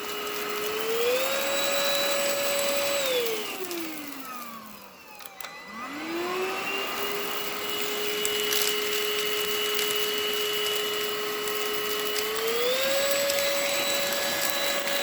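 INSE N-5 cordless stick vacuum motor running with a steady whine, stepping up to a higher pitch about a second in. It then winds down to a stop about 5 seconds in, spins straight back up to its lower steady whine, and steps up in pitch again near the end, as the vacuum is switched between its two speeds.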